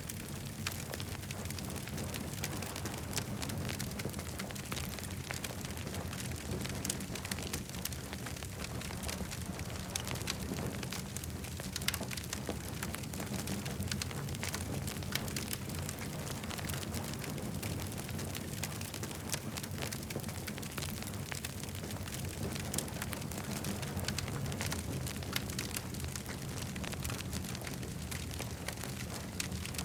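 Campfire burning steadily, with frequent sharp crackles and pops over a constant low rush.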